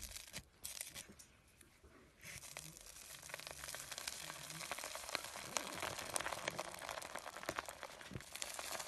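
Slime being squeezed and stretched by hand: a few scattered small crackles, then from about two seconds in a dense, continuous run of crackling and popping.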